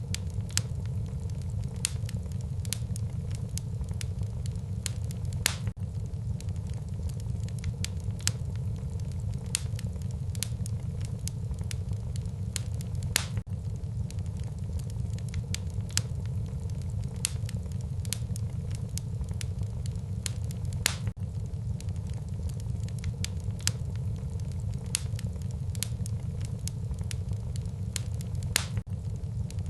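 Wood fire burning in a fireplace: a steady low rumble of flame with irregular crackles and sharp pops of the burning logs, a few pops standing out louder.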